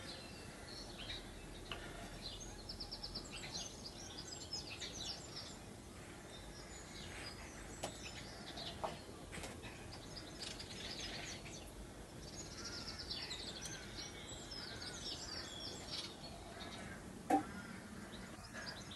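Small birds chirping and twittering in the background, many quick high calls in runs, with one short knock near the end.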